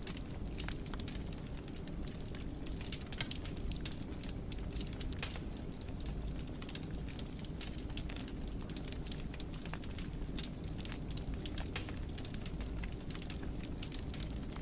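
Fire in a fireplace crackling, with many quick, irregular pops and snaps over a low, steady rumble of flames.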